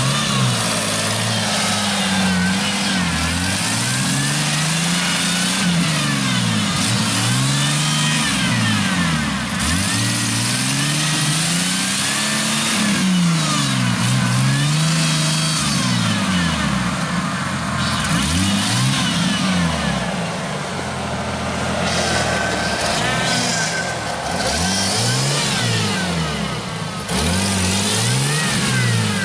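Off-road 4x4's engine revving up and down over and over, each rev climbing and dropping back within a second or two.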